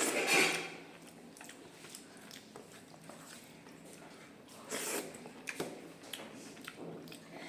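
Close-miked eating sounds: chewing and mouth noises with small wet clicks, and two louder noisy bursts, one right at the start and one about five seconds in.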